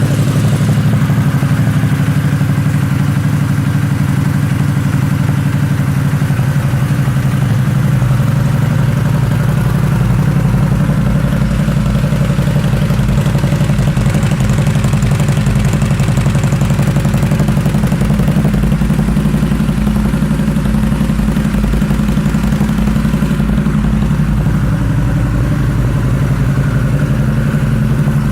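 2016 Harley-Davidson Night Rod Special's 1250 cc liquid-cooled Revolution V-twin idling steadily just after starting, through blacked-out Vance & Hines exhaust pipes.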